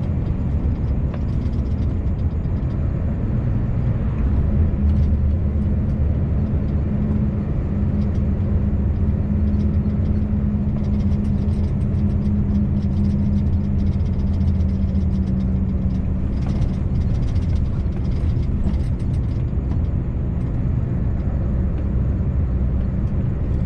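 Scania V8 truck engine running steadily under way, a continuous low drone with an even pitch held for long stretches.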